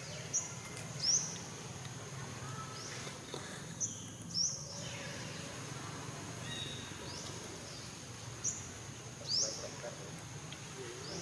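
A small bird repeating short, high, rising chirps at irregular intervals over a steady outdoor background hum.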